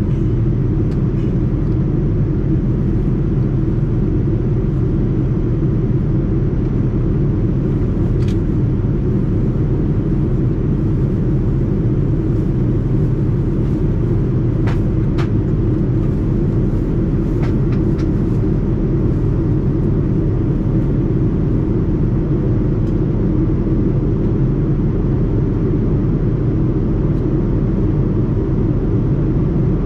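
Steady low rumble of a Boeing 787-9 airliner cabin in flight: engine and airflow noise, with a few faint clicks.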